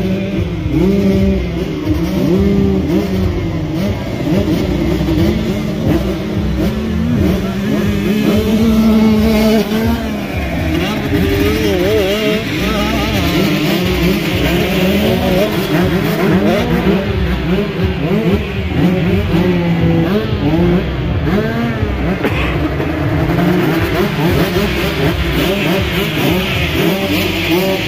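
Motocross bike engines revving, their pitch rising and falling over and over as they are ridden around the track, with more than one engine heard at once.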